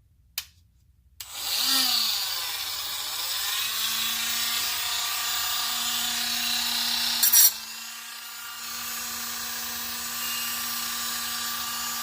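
Dremel rotary tool with a metal cutoff wheel cutting through a rusted exhaust Y-pipe bolt. After a click, it starts about a second in with a high whine whose pitch dips and then steadies, with a grinding hiss from the wheel on the metal. There is a brief louder scrape about seven seconds in.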